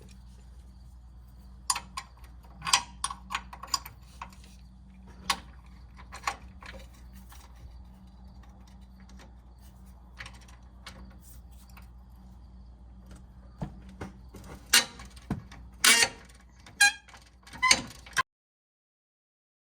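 Scattered metallic clicks and clinks of a 21 mm wrench and socket working the nut off the upper control arm pivot bolt, with a cluster of louder clinks near the end, over a low steady hum. The sound cuts off abruptly to silence shortly before the end.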